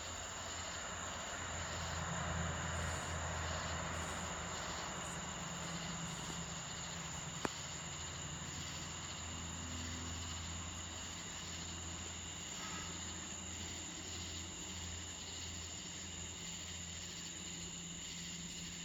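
A steady chorus of insects chirring, over a low hum that swells and fades. A single sharp click comes about seven and a half seconds in.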